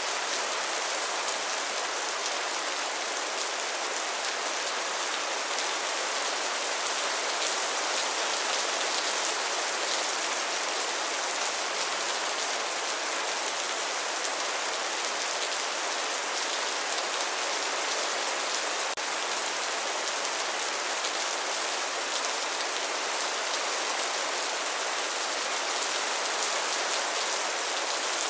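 Steady rain falling, a dense even patter of drops with a single faint click about two-thirds of the way through.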